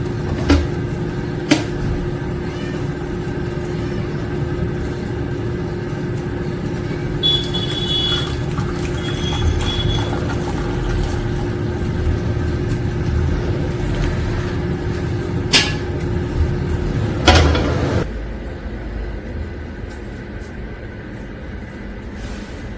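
A steady machine hum with a low rumble and a held tone, broken by a few sharp clicks; the hum cuts off suddenly about eighteen seconds in, leaving a quieter background.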